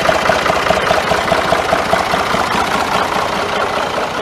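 Ford 4500 backhoe engine idling steadily, with a rapid regular ticking clatter in the first half that fades into the even run.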